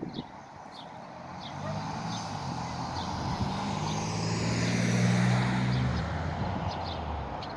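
A motor vehicle drives past, its engine hum and road noise swelling to a peak about five seconds in and then fading away. A few short high bird chirps sound in the first couple of seconds.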